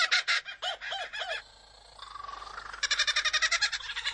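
Superb lyrebird singing mimicked calls: a fast run of repeated, laughing chattering notes like a kookaburra, a few arching notes about a second in, a short pause, then the rapid chatter starts again near the end.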